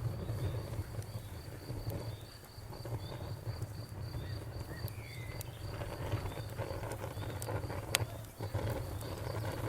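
Crickets chirping in a steady train of about four pulses a second over a crackling fire's low rumble. Scattered pops come from the fire, with a sharp loud one about eight seconds in.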